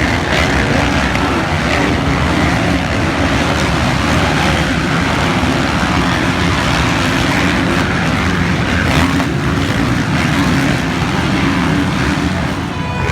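Motocross bike engines running during a race, a loud, continuous wash of engine noise.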